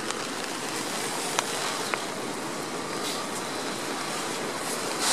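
Heavy rain falling on a canvas army tent: a steady, even hiss, with two faint sharp ticks about a second and a half and two seconds in and a short louder rush near the end.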